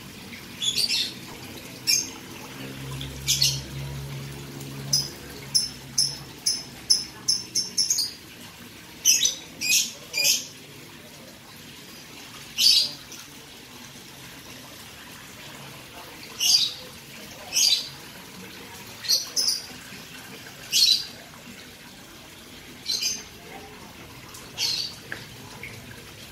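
Small bird chirping: short, high chirps at irregular intervals, with a quick run of several about five seconds in.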